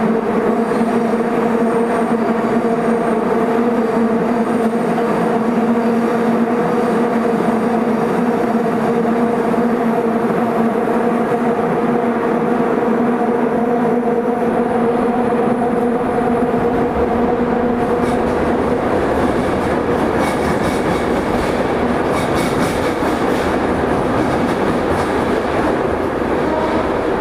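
Tobu 20070 series electric train running through a subway tunnel, heard from inside the car: steady level motor tones over wheel and rail running noise, the tones dropping away about two-thirds of the way through and leaving the rumble of the wheels.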